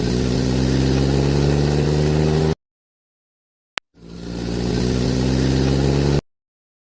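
An engine sound effect played twice in a row: each time a short click, then about three seconds of engine running and rising slightly in pitch, cut off abruptly.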